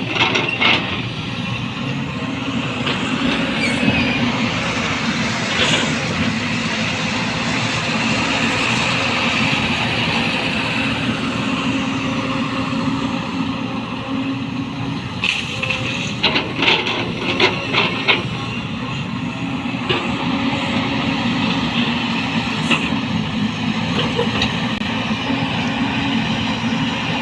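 Diesel engine of a 225 LC tracked excavator running steadily under load while it digs and loads soil, with a run of sharp clanks and knocks a little past halfway through.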